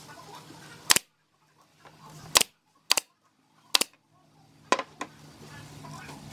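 Five sharp, loud strikes at uneven spacing, typical of nails being driven into wood during a woodworking build, each dying away quickly.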